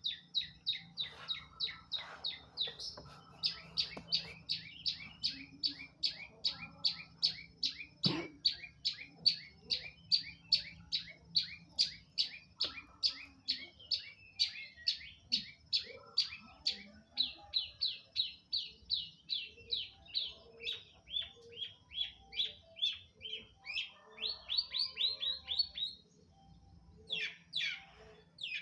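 Long-tailed shrike singing hard: a long run of sharp, falling chip notes repeated about three times a second, breaking off briefly near the end before starting again. A single sharp knock sounds about eight seconds in.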